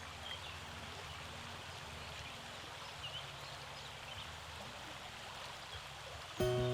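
Steady hiss of water, like a stream or rain, with a few short high chirps over it. Background music comes back in near the end.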